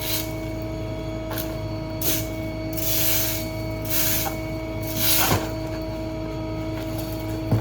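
Small rear-load garbage truck running with a steady hum and a faint even whine, while short swishing, hissing noises come and go about once a second.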